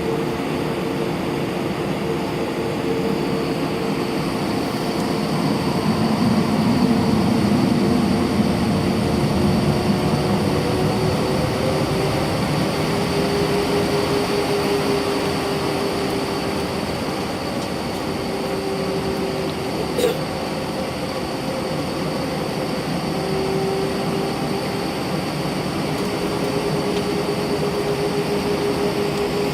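Cabin noise inside an Airbus A319 taxiing, its jet engines running at low power with a steady hum and a faint high whine. A single short click comes about twenty seconds in.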